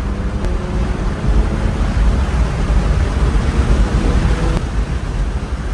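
Inside a BMW 335is while driving: the N54 twin-turbo inline-six's steady hum under loud road and wind rumble.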